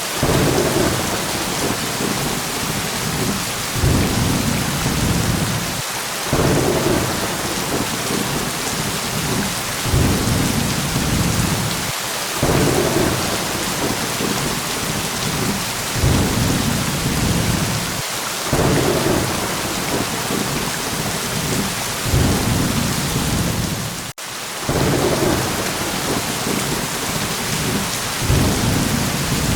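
Steady rain, with low rolls of thunder swelling up every few seconds over the hiss, and a brief dropout about four-fifths of the way through.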